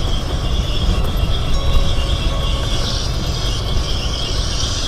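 Land Rover Defender driving over a rough dirt track, heard from inside the cab: a steady low engine and drivetrain rumble with a steady high-pitched hiss over it.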